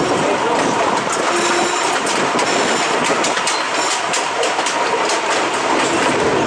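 Cumbres & Toltec narrow-gauge passenger train rolling along the track, its wheels clicking over the rails with a steady rumble. Brief thin high squeals come and go.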